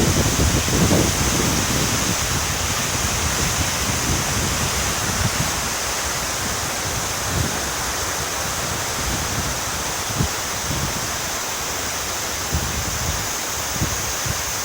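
Floodwater of a swollen river rushing in a steady, loud wash of noise, with a few brief low thumps now and then.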